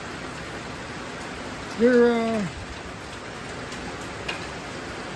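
Steady rain falling as an even hiss, with one drawn-out, level-pitched "uhh" from a man about two seconds in.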